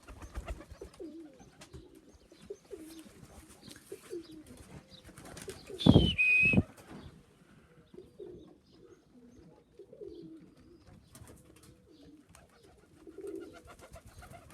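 Domestic pigeons cooing repeatedly in short, low, rolling calls. About six seconds in there is a sudden loud burst of noise, lasting under a second, with a short high whistle that falls in pitch.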